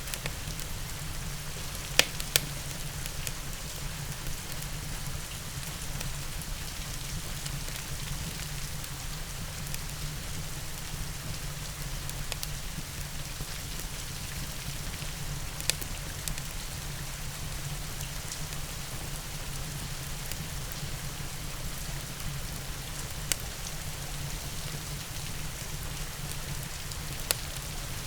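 Steady rain with a wood fire crackling, a few sharp pops standing out above the even hiss, twice close together near the start and then singly later on.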